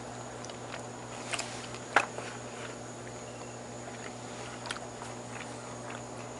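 A person chewing a bite of grilled chicken, with a few faint clicks and mouth sounds, the sharpest about two seconds in, over a steady low hum.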